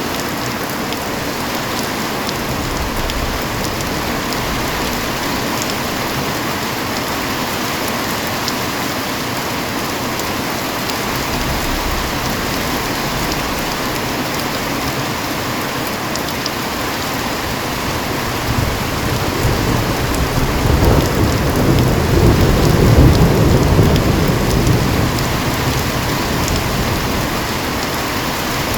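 Heavy rain falling steadily, with a low roll of thunder building about two-thirds of the way through, loudest a few seconds later, then fading away.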